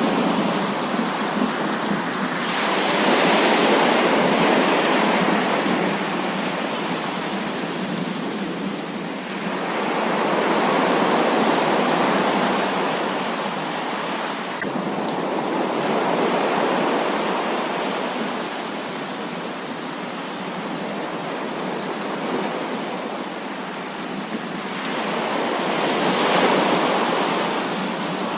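Heavy rain falling steadily, swelling louder in waves four times.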